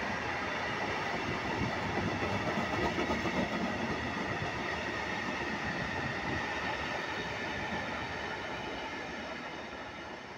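Freight train of dry-bulk tank wagons rolling past, a steady rumble and rattle of wheels on rail with a high-pitched whine over it, fading near the end as the last wagon moves away.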